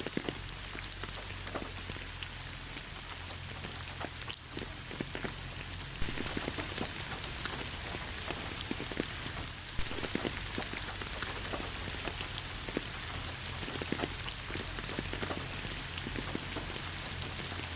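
Steady rain falling, with many individual drops tapping close by over a constant hiss and a low steady rumble underneath. It gets slightly louder about six seconds in.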